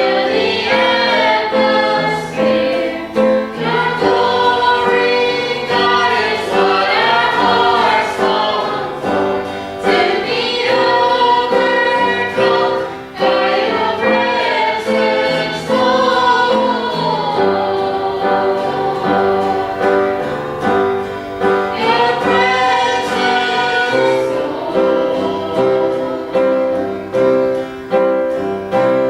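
Group of singers singing a contemporary worship chorus over instrumental accompaniment. The voices drop out for a few seconds past the middle and again near the end, leaving the accompaniment playing.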